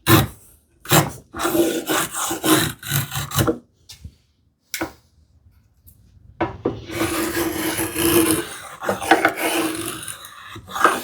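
Hand saw cutting into wood in quick back-and-forth rasping strokes, sawing the sides of a groove by hand. The strokes stop for about three seconds partway through, with a couple of light knocks, then start again.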